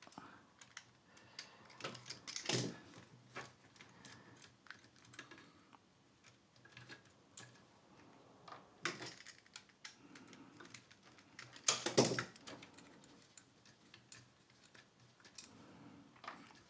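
Scattered light clicks and clinks of a screwdriver and screws as screws are taken out of a power supply module, with a few louder knocks, the loudest about twelve seconds in.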